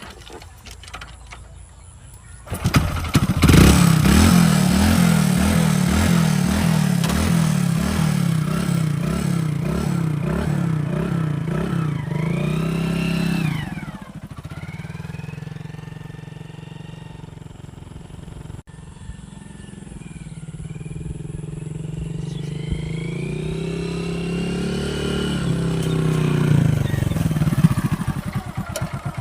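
Motorcycle kick-started, the engine catching about two and a half seconds in and running loud with an even pulsing beat. About halfway through it settles to a quieter idle, then builds up again in pitch and level before dropping off near the end.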